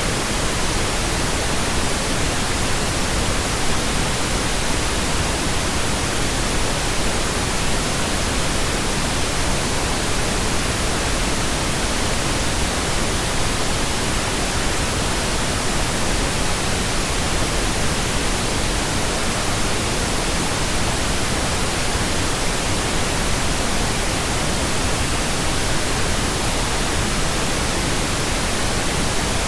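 Steady pink noise generated in Audacity: an even, unchanging hiss spread across all pitches, fuller in the low end than white noise.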